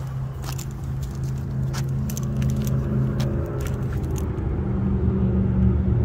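A motor vehicle's engine running and drawing nearer, a steady low hum that grows louder and steps up in pitch a little past halfway. A few light clicks sound in the first half.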